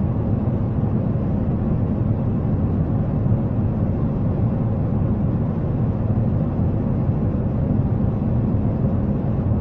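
Airliner cabin noise: a steady, even rumble of jet engines and rushing air, with no change throughout.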